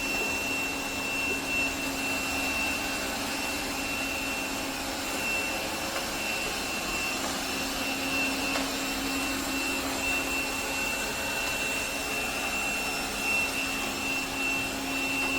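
Robot vacuum cleaner running: a steady suction-motor whir with a thin, constant high whine and a low hum.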